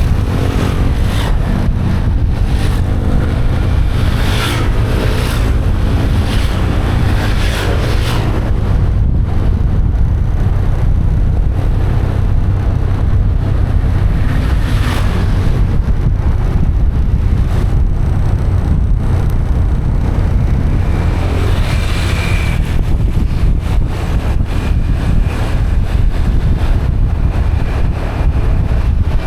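Riding on a motorbike: wind buffeting the microphone over the motorbike's engine and tyre noise, with other vehicles rushing past several times.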